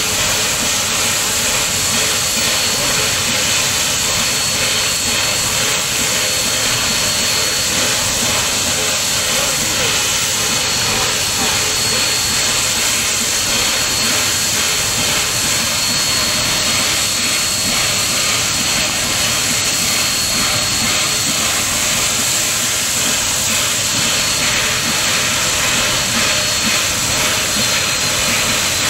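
Steady, loud rushing hiss of a train ride, with a thin high tone running through it.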